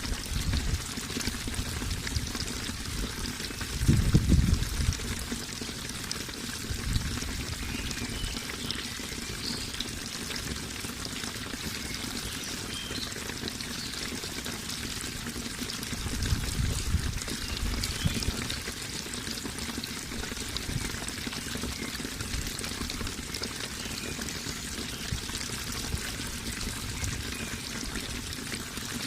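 Flowing water, a stream or small waterfall, pouring and trickling steadily, with louder low rumbles about four seconds in and again around sixteen to eighteen seconds.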